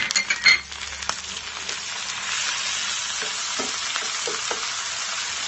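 Shrimp and ground spice paste going into hot mustard oil and browned onions in a frying pan, sizzling, with a few sharp knocks of a wooden spoon on the pan at the start. The sizzle grows louder about two seconds in as the food is stirred in the oil.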